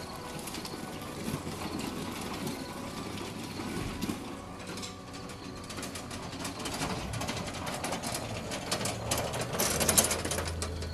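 Homemade electric lawn tractor running, its electric drive motor and gearing whirring steadily as it pushes gravel with a front plow, with gravel scraping and crunching that builds toward the end.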